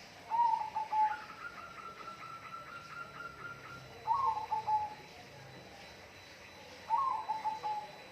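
A bird calling: three short calls that fall in pitch, a few seconds apart, with one longer, steady, higher note after the first.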